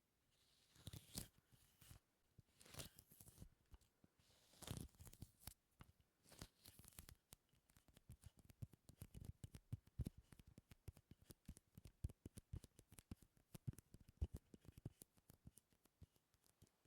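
Faint, close-miked sticky sounds: something tacky pulled apart in a few crackling peels, then many quick small sticky clicks and pops.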